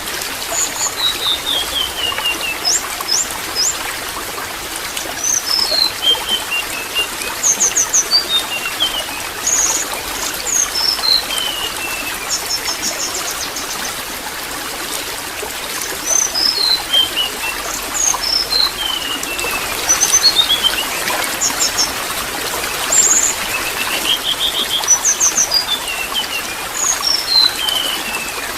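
Water trickling steadily, with a small songbird repeatedly calling over it: short runs of high chirps that step down in pitch, and quick high trills, every couple of seconds.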